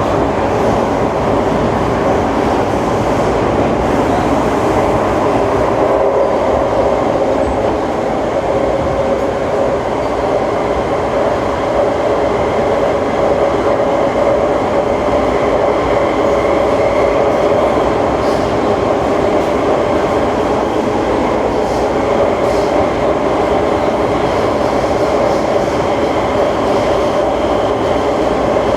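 Siemens C651 metro train heard from inside the car while running at steady speed between stations: a continuous rumble of wheels on rail under a steady hum from its GTO-VVVF traction equipment.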